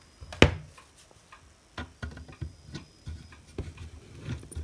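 Light metallic clicks and taps from a hand tool loosening a nut on a hot air rework station. One sharper knock comes about half a second in, followed by scattered lighter clicks.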